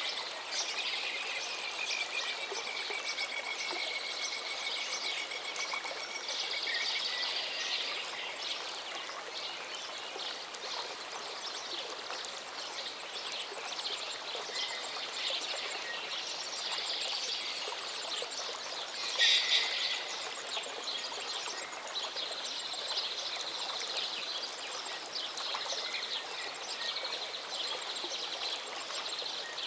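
Running water of a small mountain waterfall, a steady rush, with birds singing over it: a long whistled note in the first few seconds, scattered chirps, one loud call about two-thirds through and a fast trill near the end.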